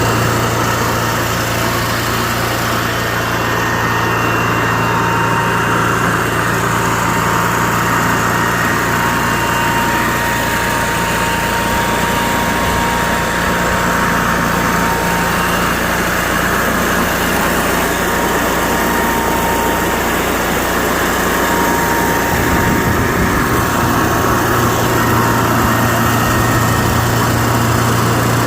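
Onan 4000 generator engine running steadily and smoothly after repair, with a steady low hum under the engine noise.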